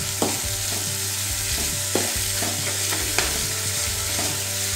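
Sliced onions, curry leaves and green chillies sizzling steadily in hot oil in a metal kadai, stirred with a metal spoon that scrapes and clicks against the pan three times.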